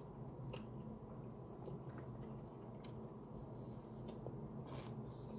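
Faint chewing and small wet mouth clicks of a person eating breaded fried food, over a steady low hum.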